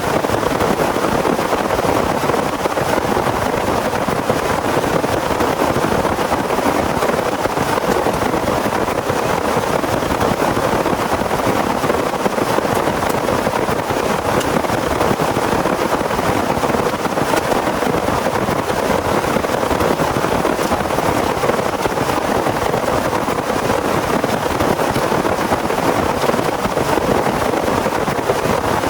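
Heavy rain falling steadily, a dense unbroken hiss of rain.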